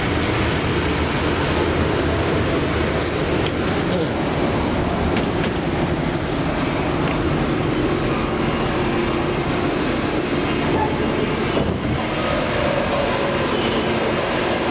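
Passenger train heard from inside a coach, a steady rumble of the train rolling along a station platform, with a faint squeal from the wheels near the end.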